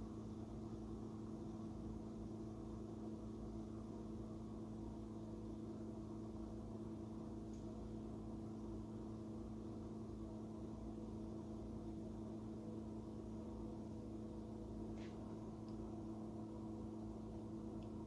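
Bosch dishwasher running after a restart: a steady electric hum of several pitches, with a faint click about 15 seconds in.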